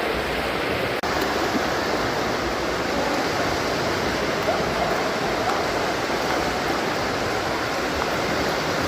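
Steady rushing and splashing of water in a swimming pool.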